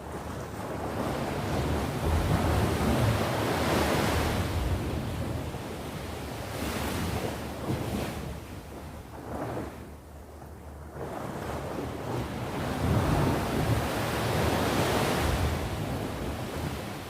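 Sea waves breaking and washing ashore, the surf swelling twice, about ten seconds apart, with a quieter lull between, over a low wind rumble on the microphone.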